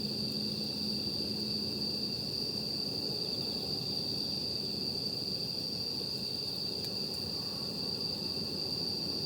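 Night insects trilling in one steady, unbroken high-pitched tone over an even low background noise, with a single faint crackle from the campfire about seven seconds in.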